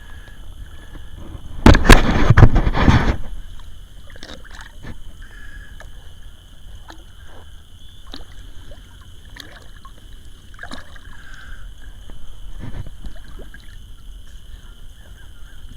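River water sloshing and splashing at the bank's edge, with one loud splash lasting about a second and a half about two seconds in and a smaller one near the end, between faint gurgles and small knocks.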